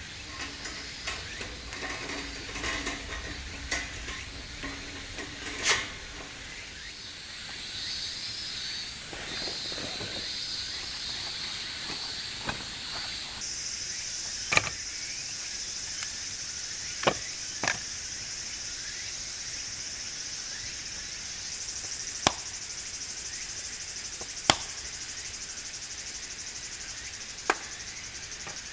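Wood fire crackling in a camp fire pit, with scattered single sharp pops, over a steady high insect chorus. Light clattering of camp gear in the first few seconds.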